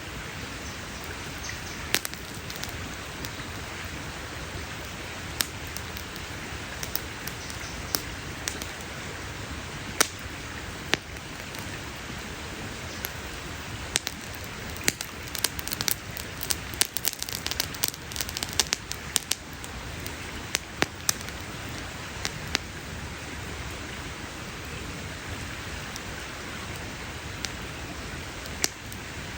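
Campfire crackling: a steady hiss of burning wood with sharp pops and snaps scattered throughout, coming in a quick flurry about halfway through.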